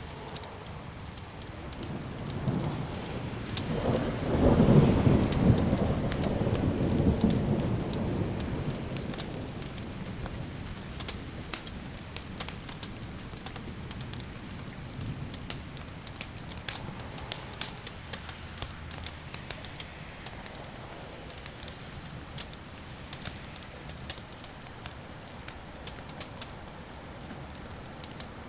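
Rolling thunder rumble that builds about two seconds in, is loudest around five seconds and dies away over several seconds. Underneath, a wood fire crackles steadily with sharp pops, more noticeable once the thunder fades.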